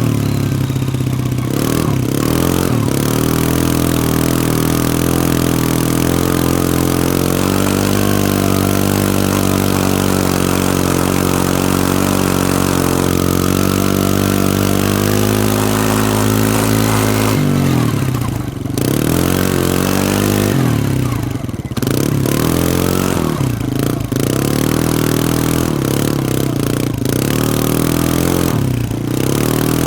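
Can-Am ATV engine running under steady throttle on the trail, then from about 17 seconds in revving up and dropping off several times as the throttle is opened and let off.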